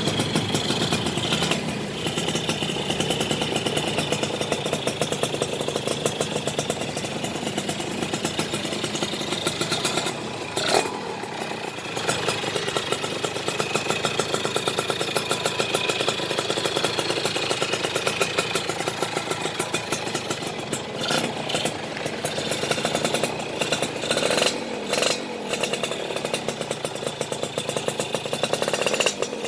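Yamaha F1ZR two-stroke motorcycle engine running through a stainless standard-racing exhaust with glass-wool packing, giving a crisp, rattly exhaust note. The rapid firing pulses run steadily, with the throttle eased off briefly a few times.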